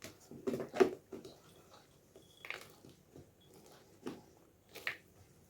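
Walnuts going into thick cake batter and being mixed in: a few soft, scattered crunches and clicks.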